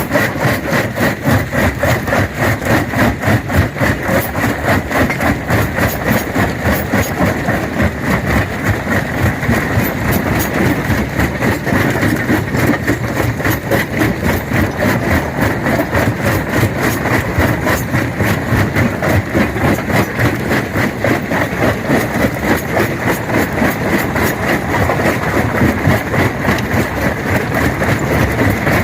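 Industrial stone crusher running and crushing rock, with a loud, steady, fast even pulse of mechanical clatter.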